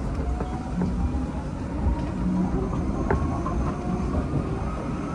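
Hanshin 5001-series commuter train running between stations, heard from inside the car: a steady rumble of wheels on rail, faint motor tones gliding slowly in pitch, and a sharp click about three seconds in.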